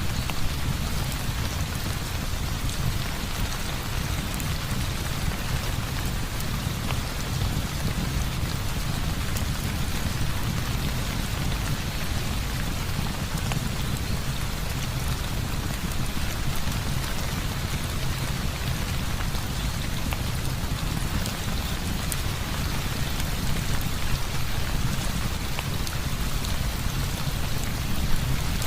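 Heavy rain falling steadily, with a low rumble underneath and scattered small ticks throughout.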